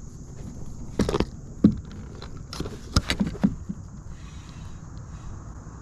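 Several sharp knocks and rattles, a cluster about a second in and more around three seconds in, over a steady low rumble.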